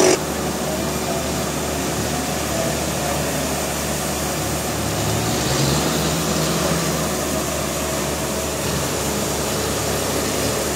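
Sawing noise cuts off abruptly at the start, leaving sawmill machinery running steadily without cutting, a low engine drone with a brief rising tone about halfway through.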